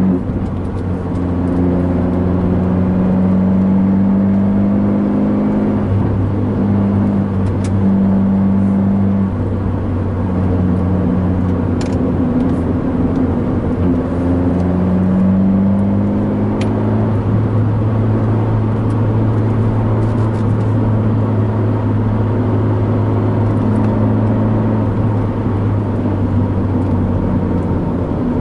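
Abarth 124 Spider's turbocharged 1.4-litre four-cylinder engine, heard from inside the cabin over tyre and road noise, running at fairly steady revs with small rises and falls on a cool-down lap after the checkered flag. A few faint clicks sound here and there.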